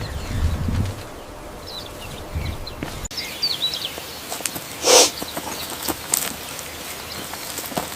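Outdoor ambience with small birds chirping now and then, light rustling and clicks, and one short, loud, hissing burst of noise about five seconds in. The background changes abruptly about three seconds in.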